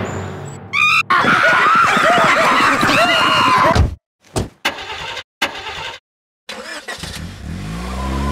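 Shrill wavering calls of a troop of monkeys, then a few short choppy noises with dead silences between them. Near the end a car engine starts and revs up, its pitch rising.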